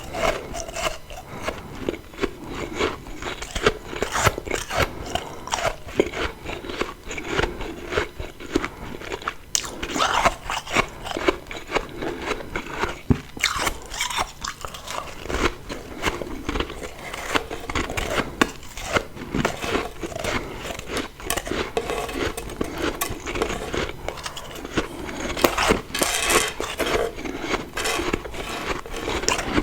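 Close-miked biting and chewing of refrozen freezer frost, a steady run of irregular crisp crunches with louder clusters of bites about a third of the way in and again near the end.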